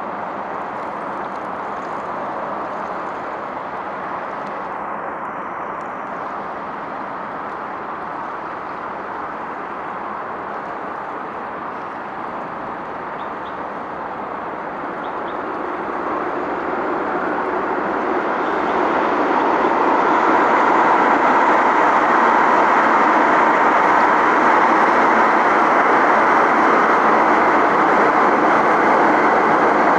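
Steady rushing of passing traffic. It swells louder from about halfway through and stays loud to the end.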